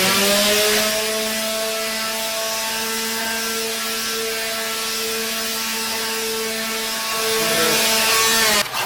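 Electric power tool running steadily on wood, its motor whine under a loud scratchy hiss, as the edges of the plywood sled are rounded over. The motor winds down and stops near the end.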